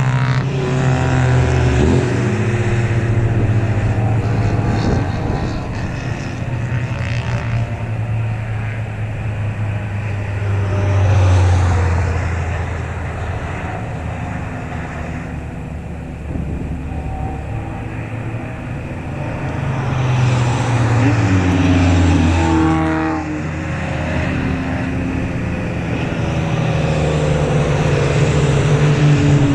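Race cars passing the corner one after another, their engines swelling and fading with a falling pitch as each goes by; the loudest passes come about a third of the way in and again about two-thirds in.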